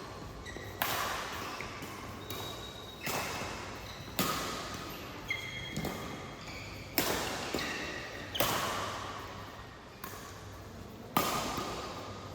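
Badminton rally: racket strings striking the shuttlecock about once a second, each hit ringing out with a long echo in the hall, with short sneaker squeaks on the court between hits.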